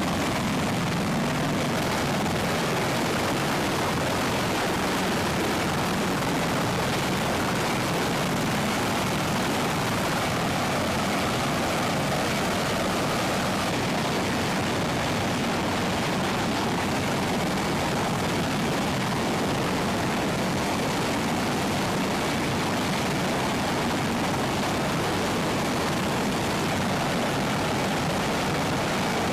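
Helicopter running steadily: a continuous loud engine and rotor noise that cuts in suddenly.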